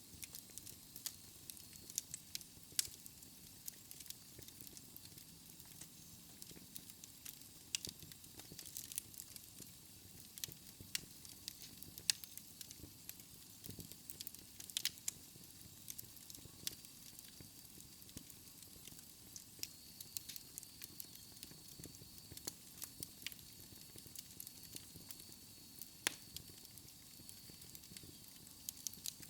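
Wood fire burning in a fireplace, crackling and popping with irregular sharp snaps over a low steady hiss.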